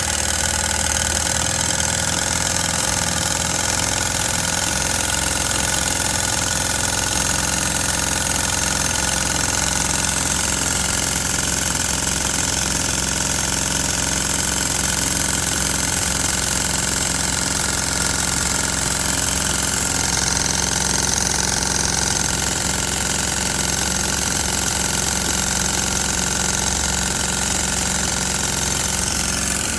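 Stuart model steam boiler feed pump running steadily on steam on its first run, a continuous mechanical running sound with a strong hiss.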